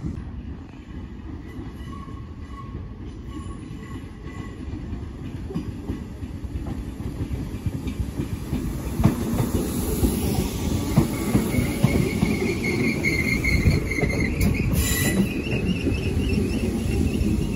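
Merseyrail electric multiple unit coming into the platform and running past close by, its wheels rumbling louder on the rails as it nears. A high, steady squeal sounds for a couple of seconds about three-quarters of the way through.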